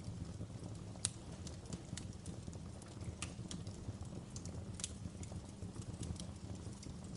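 Wood fire crackling in a fireplace: irregular sharp pops and snaps over a low, steady rumble of the flames, with one louder pop about a second in.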